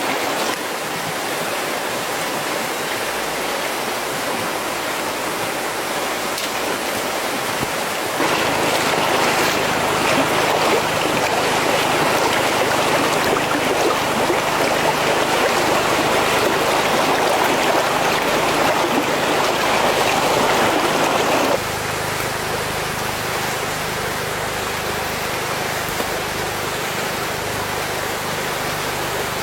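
Steady rushing water noise, with no distinct events; it becomes suddenly louder and brighter about eight seconds in and drops back just as abruptly about 21 seconds in.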